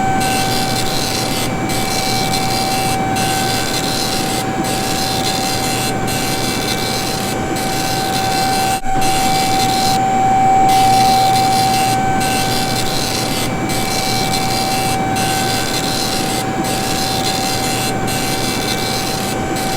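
Dot matrix printer printing line after line, its rasping print noise breaking off briefly about every second and a half, over a steady hydraulic whine.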